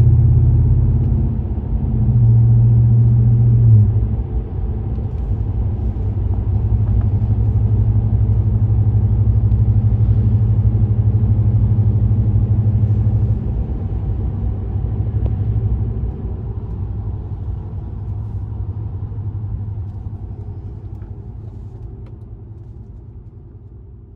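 Deep exhaust drone of a Ram 1500's 5.7 L Hemi V8 through a muffler-and-resonator-delete system, running under way with MDS cylinder deactivation switched off. The tone steps down about four seconds in, dips again around thirteen seconds, then grows steadily quieter over the last several seconds.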